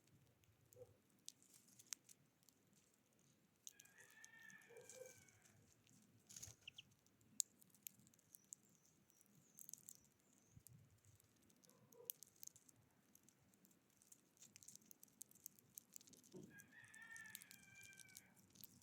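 Faint bird calls, twice about twelve seconds apart and each about a second and a half long, among scattered light tapping clicks typical of birds pecking at a feeder.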